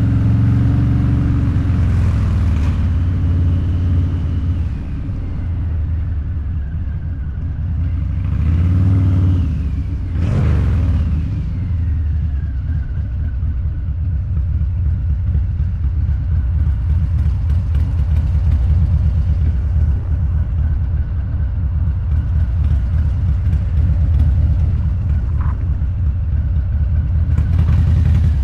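Harley-Davidson Low Rider's 129 ci V-twin running loud through a Two Brothers Racing exhaust while riding, its pitch rising and falling with the throttle about a third of the way in, with a brief rush of noise just after.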